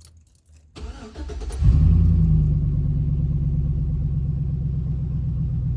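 2014 GMC Sierra gas pickup engine cranking on the starter for under a second, then catching with a brief rev flare and settling into a steady idle. It starts despite the tuner error during the tune write.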